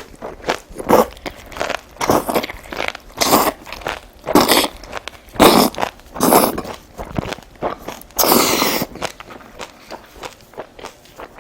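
Close-miked eating sounds: biting, crunching and chewing of food, in separate bursts about once a second, with one longer noisy sound about eight seconds in.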